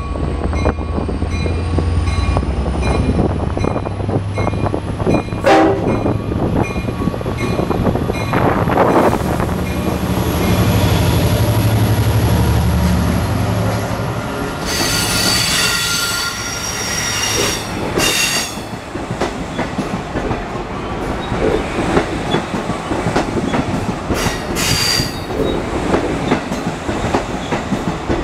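An EMD DE30AC diesel-electric locomotive pulls a train out of the station: the locomotive's low diesel rumble runs for about the first half, with a faint high whine rising at the start. Then Kawasaki C3 bilevel coaches roll past close by, their wheels clacking over the rail joints. High wheel squeals come in bursts about halfway through and again near the end.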